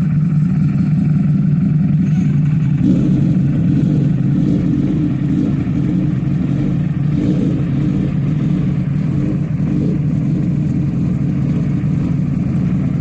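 Superbike engine running at a steady idle through a full-system aftermarket exhaust, a deep even note that grows slightly fuller about three seconds in.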